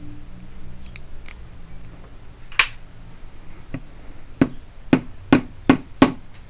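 Sharp small clicks of a tool working the wafers of a car trunk lock cylinder: a few scattered clicks, one loud one a little past two seconds in, then a quicker run of clicks near the end. A low hum fades out just at the start.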